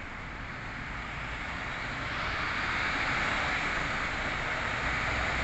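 MAN TGS 26.320 garbage truck approaching: engine and tyre noise that grows louder over the first few seconds, then holds steady.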